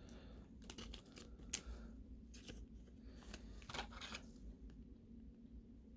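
Faint plastic rustling and light clicks of a trading card being handled and slid into a plastic card sleeve, stopping a little after four seconds in.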